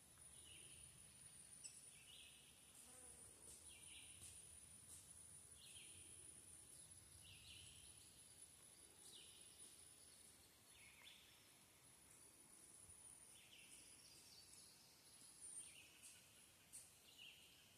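Faint outdoor nature ambience: a steady, very high insect drone, with short chirps repeating about every second or so.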